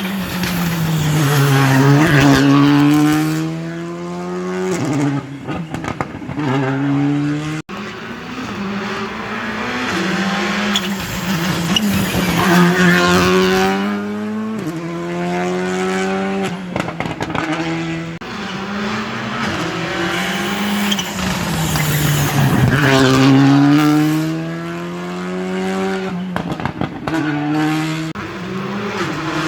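Rally cars passing at speed on a wet stage, one after another. The engine notes fall on braking and downshifts, then climb again under hard acceleration through the gears. There is an abrupt cut between cars about a third of the way in.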